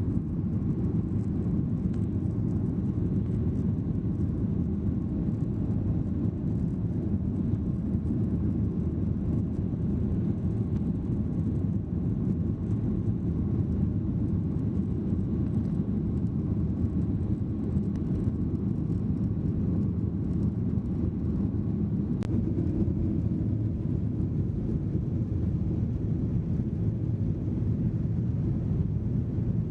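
Steady cabin noise inside a Boeing 737-800 airliner: the even, low rumble of the jet engines and airflow, with a faint steady tone above it.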